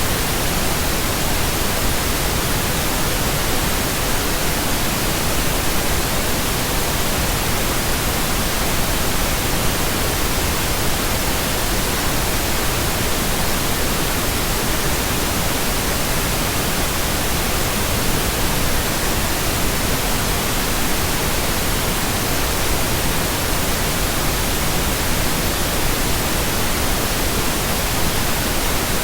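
Steady synthetic pink noise: an even hiss across all pitches, with no tones, breaks or changes.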